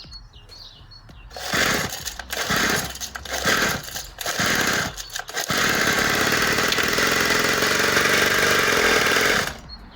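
49cc two-stroke pit bike engine sputtering into life in several short uneven bursts, then running steadily for about four seconds before stopping abruptly near the end; the owner puts its reluctance down to fuel problems.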